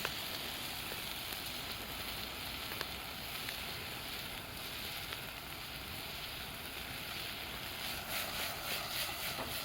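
Food frying over a campfire: a steady sizzling hiss with scattered sharp crackles, and a short cluster of clicks near the end.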